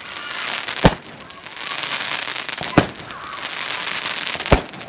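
Celtic 'Guns and Roses' firework cake firing: hissing, crackling stretches, each ended by a sharp bang, three bangs about two seconds apart.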